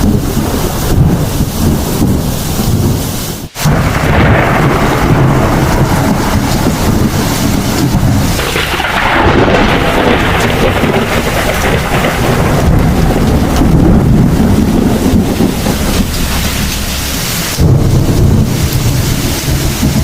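Heavy thunderstorm: steady, loud rain with repeated rolls of low thunder swelling and fading over it. There is a momentary drop-out about three and a half seconds in.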